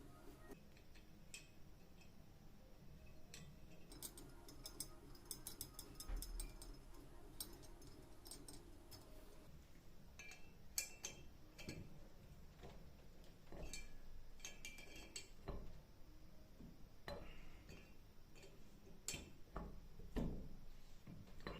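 Faint, scattered clicks and light metallic clinks from small metal parts of a hydraulic jack being handled, with a few soft low knocks.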